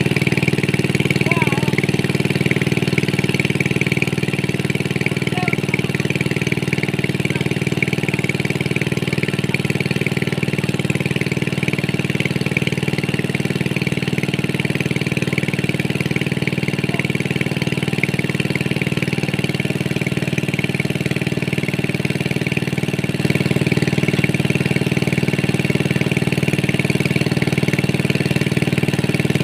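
A small engine running steadily at constant speed, getting a little louder about 23 seconds in.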